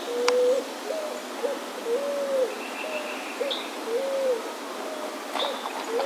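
A bird's low hooting call: a run of about eight short, arched notes, some clipped and some drawn out, spread over several seconds. There is a sharp click about a third of a second in and a few more clicks near the end.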